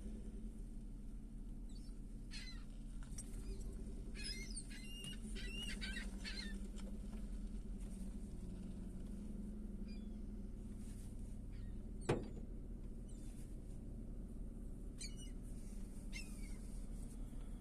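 Gulls calling in scattered short squawks over a steady low background rumble, with a cluster of calls about four to six seconds in and a couple more near the end. A single sharp click about twelve seconds in is the loudest sound.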